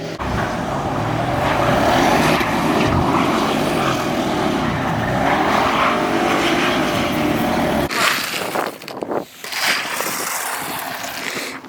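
Car engine revving hard, its pitch rising and falling, for about eight seconds, then falling away.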